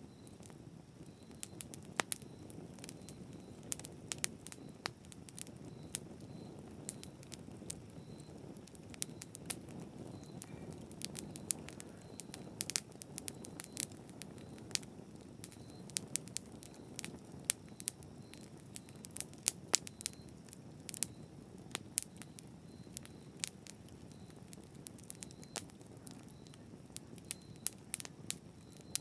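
Campfire burning: irregular sharp crackles and pops of burning wood over a steady low rush of flames.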